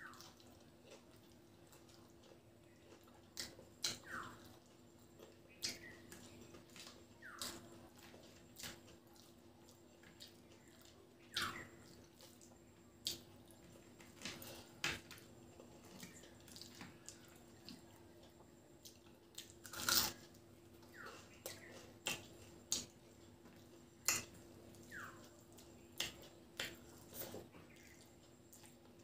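Close, wet eating sounds of someone eating rice and curry by hand: irregular lip smacks, tongue clicks and chewing, about one every second, the loudest smack about two-thirds of the way through. A faint steady hum runs underneath.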